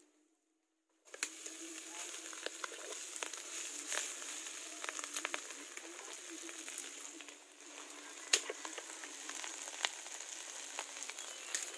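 Food frying in hot oil in a pan: a steady sizzle with frequent sharp crackles and pops, starting suddenly about a second in.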